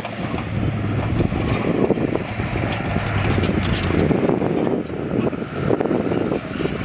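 Heavy diesel earthmoving machinery running: a steady low engine drone under a rough, uneven rattling noise that swells and eases repeatedly.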